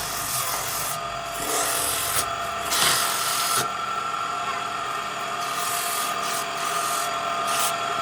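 Electric sander working wood: a steady motor whine with a rasping scratch that swells and fades as it passes over the surface, loudest about three seconds in.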